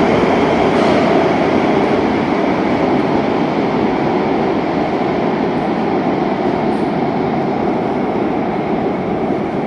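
Madrid Metro Series 9000 train running along the platform as it leaves the station: a steady, loud rolling rumble that slowly fades.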